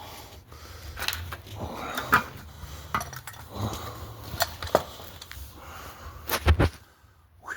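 Metal clanks, clicks and knocks as the oil cooler is worked free and lifted off a Mercedes V6 diesel engine, with loose bolts rattling out; the loudest knocks come about two seconds in and as a quick cluster near the end.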